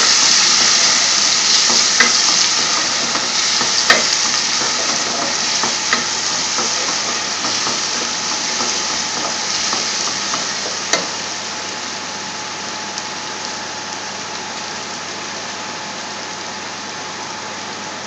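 Chopped onion, garlic and ginger sizzling in hot vegetable oil in a metal pot, stirred with a wooden spoon that knocks against the pot a few times. The sizzle slowly dies down.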